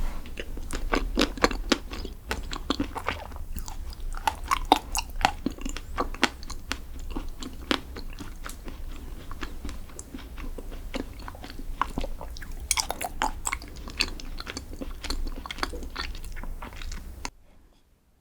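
Close-miked chewing and crunching of chocolate desserts: crisp crackles and bites in a quick irregular run, over a steady low hum. It cuts off suddenly near the end.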